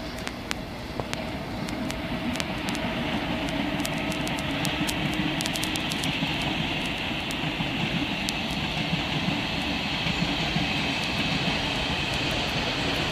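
Double-deck electric commuter train passing, a steady rumble of wheels on rails that builds slowly, with scattered sharp clicks. A higher hiss joins about five seconds in.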